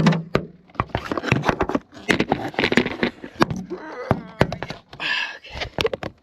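Handling noise from a phone being moved and repositioned close to its microphone: a rapid, irregular run of clicks, knocks and scrapes.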